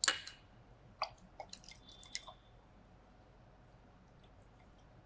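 Small sharp clicks and light taps of glass lab ware being handled: one at the start, another about a second in, and a quick cluster near two seconds, then a few faint ticks.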